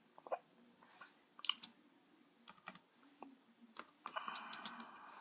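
Faint computer keyboard typing: scattered key clicks, with a stretch of steadier noise joining in about four seconds in.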